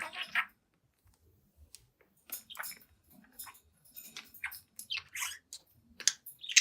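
A young budgerigar giving a string of short, scratchy chirps and clicks in irregular bursts, with a pause of about a second and a half near the start.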